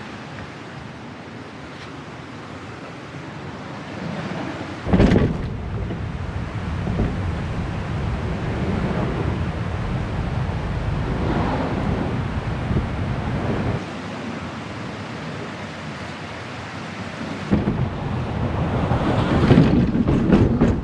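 Wind buffeting the microphone in uneven gusts, with a sharp knock about five seconds in and stronger gusts near the end.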